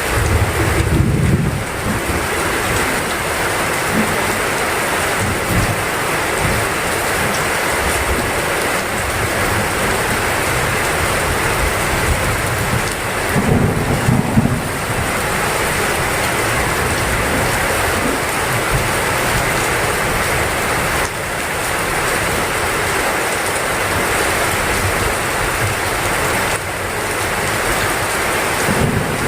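Heavy rain falling steadily, with low rolls of thunder about a second in and again around the middle.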